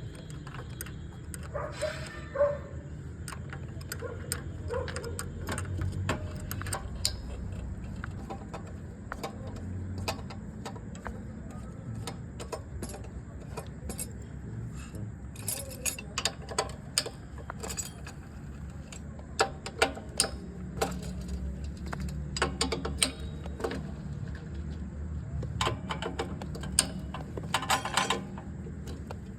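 Repeated sharp metallic clicks and clinks, scattered irregularly and busiest in the second half, over a steady low hum.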